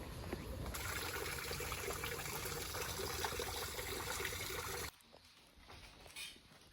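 Steady hiss of running water, which cuts off suddenly about five seconds in.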